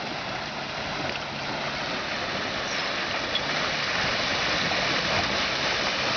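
Creek water rushing and sloshing steadily around a Suzuki XL-7 fording the creek, growing slightly louder, with the SUV's engine humming faintly underneath in the first half.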